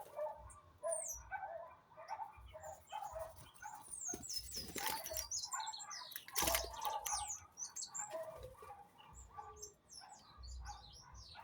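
A flock of small birds chirping and calling, with quick repeated chirps and high falling whistles. Two brief loud rustling bursts come about four and a half and six and a half seconds in.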